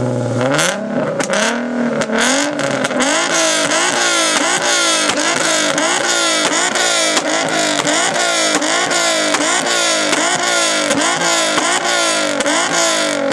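Infiniti's engine being revved hard: two slower revs, then quick, even rev blips about twice a second, the pitch rising and falling each time, with exhaust pops and crackles.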